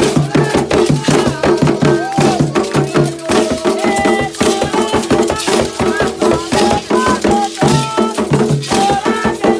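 Afro-Brazilian Candomblé ritual music: shaken rattles and drums play a fast, steady rhythm, with sung notes held and sliding above them.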